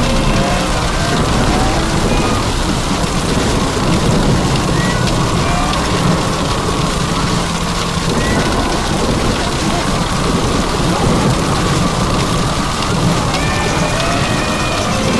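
Heavy rain falling steadily, with a low, continuous rumble of thunder.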